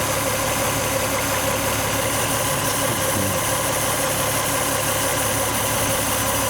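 Toyota JZA70 Supra's 1JZ-GTE twin-turbo straight-six idling steadily, run briefly after the leak repairs to check for oil leaks.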